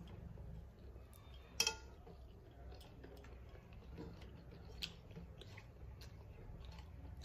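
A person chewing and smacking while eating rice and curry by hand, with many small wet mouth clicks. One sharp metallic clink with a brief ring comes about a second and a half in, and a smaller click near five seconds, over a low steady hum.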